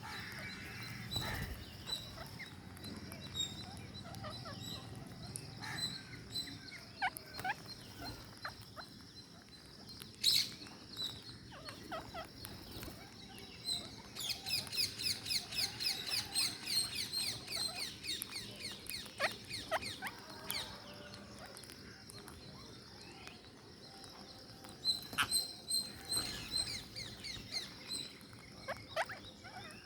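Ring-necked parakeets feeding, with scattered clicks and crunches. About halfway through they give a rapid run of short, high chattering calls lasting several seconds, and a shorter run comes near the end.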